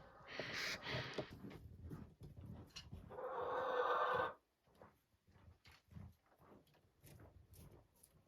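Chickens in a chicken run: scattered light pecking and scratching taps, with a drawn-out, harsh chicken call about three seconds in that lasts about a second.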